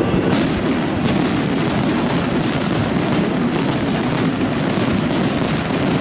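Fireworks barrage: a dense, unbroken run of rapid bangs and crackles.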